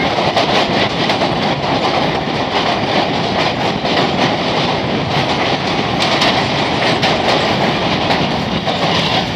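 Passenger train running along the track, heard from inside a coach by the window: a steady, loud noise of wheels on rails with faint clickety-clack of the rail joints.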